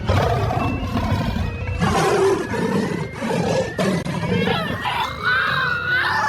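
A loud animal-like roar sound effect over background music, with a wavering cry near the end.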